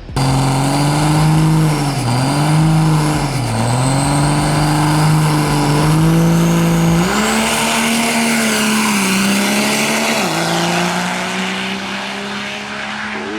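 Diesel drag-race truck engine at full power on a pass down the strip. The engine note dips briefly twice in the first few seconds, steps up in pitch about seven seconds in, and drops back about ten seconds in.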